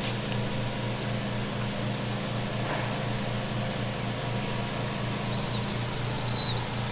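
Steady low machine hum with a fast, even pulse. From about five seconds in, a thin high-pitched whine joins it, wavering slightly.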